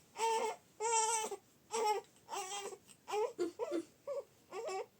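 A small child crying in a string of short, high-pitched wails with brief breaks between them.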